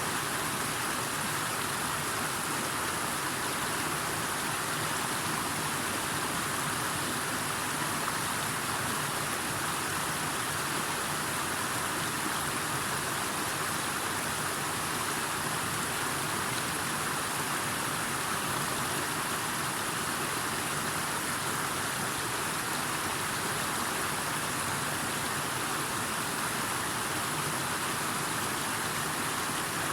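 Steady, unbroken sound of water, a constant rushing hiss with no change in level.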